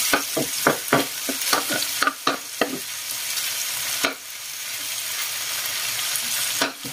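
Pork and chicken browning in oil in a wok, sizzling steadily, while a metal spatula scrapes and clacks against the pan in quick strokes for the first few seconds. After that it is mostly the sizzle.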